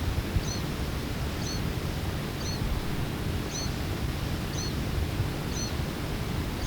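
Mourning sierra finch fledgling giving the same short, screechy begging call over and over, about once a second, each call a brief high note with a small arched note just below it. A steady low rumble and hiss of wind and tape noise runs underneath.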